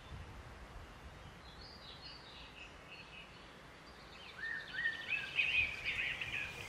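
Songbirds singing, with short chirps and gliding whistled phrases that become louder and busier from about four seconds in, over a faint low rumble.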